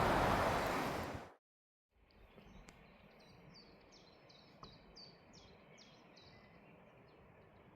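Loud rushing noise of a passing vehicle, cut off abruptly a little over a second in, then a moment of dead silence. After that comes a faint outdoor background with a small bird singing a run of about a dozen quick, high, downward-sweeping notes.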